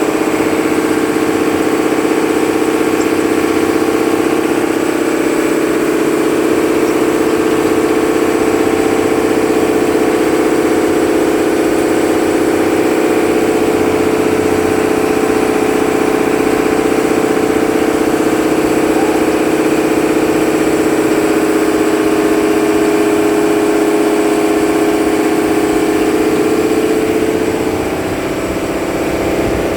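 A fishing boat's engine running steadily at a constant speed, easing back slightly near the end.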